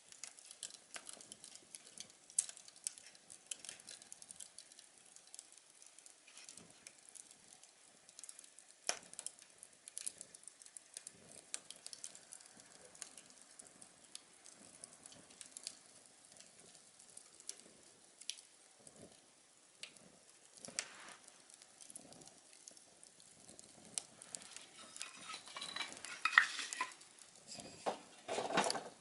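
A small wood fire crackling inside a tin-can stove: scattered, irregular pops and ticks over a light hiss. A louder burst of rustling clatter comes near the end.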